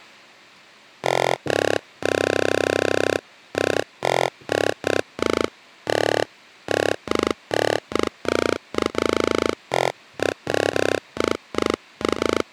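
Buzzy, gritty synthesizer tone from the 'Thumpkin' preset of Akai's MPC expansion The Noise, played as a run of short staccato notes. It starts about a second in, and the note about two seconds in is held for about a second.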